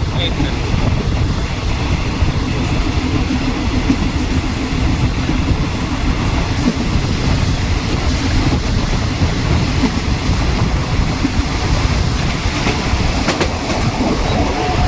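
Passenger train running at speed, heard from on board: a steady rumble and rattle of wheels on the track, with a few sharp clicks near the end.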